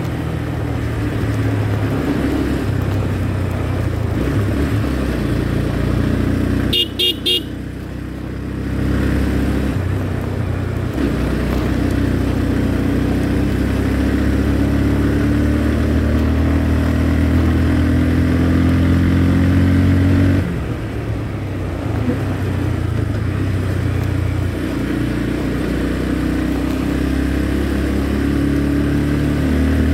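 Motorcycle engine running under way, its pitch rising and falling as speed changes and easing off for a moment about seven seconds in. A horn gives three quick beeps at that point.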